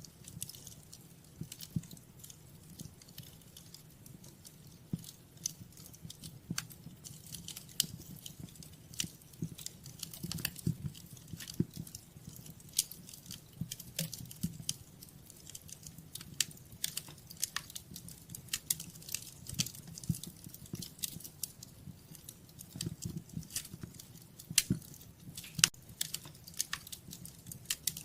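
Wood fire burning in a fireplace, crackling and popping with irregular sharp snaps over a low steady rumble of the flames.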